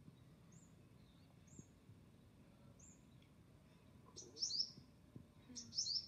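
Small bird calling: thin, high chirps about once a second, then two louder quick runs of chirps falling in pitch, about four and a half seconds in and again near the end.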